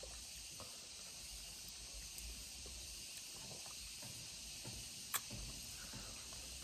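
A person chewing a mouthful of ripe mango, giving soft wet mouth clicks over a low steady hiss, with one sharper click a little past five seconds in.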